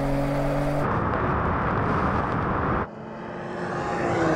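Sports-car engine running hard during a drag race, cut together from different shots: a steady engine note, then loud rushing wind and road noise from about a second in, then an engine note again with its pitch falling near the end.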